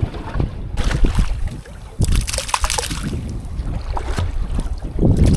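Wind rumbling on the microphone aboard a small boat at sea, with hissing surges of wind or water at about one second in, from two to three seconds in, and again near the end.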